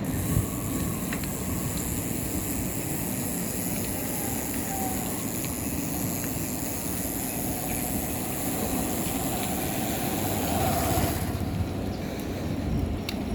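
Steady rush of wind and road noise while riding, with a low rumble and a high hiss that eases off about eleven seconds in.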